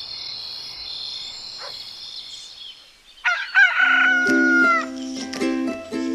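Crickets chirring steadily, fading away; about three seconds in a rooster crows once, one long call. Background music with a steady beat starts up under the crow.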